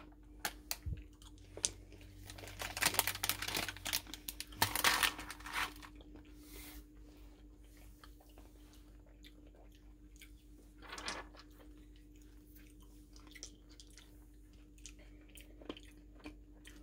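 Close-up mouth sounds of someone biting and chewing a SweeTarts Chewy Fusions candy, a chewy-and-crunchy sweet: crunching and clicking for the first few seconds, then softer, sparser chewing.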